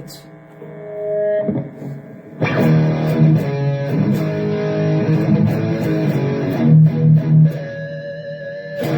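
Electric guitar played through the Donner Arena2000 multi-effects pedal, set to its Tube 9 overdrive with a lead boost into a high-gain amp model. A quieter, duller passage gives way about two and a half seconds in to loud, brighter distorted playing.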